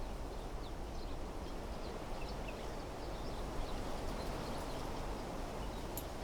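Steady wind rustling through desert trees, with many short, high bird chirps over it and a sharp click near the end.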